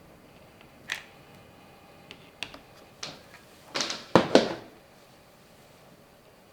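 Small objects and tools being handled on a workbench: a few light clicks and taps, then a louder burst of knocks and clatter about four seconds in.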